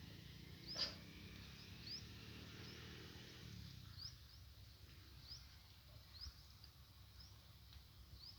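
Faint outdoor ambience: a small bird giving about a dozen short, high, upward-flicking chirps at irregular intervals over a low rumble, with one sharp click about a second in.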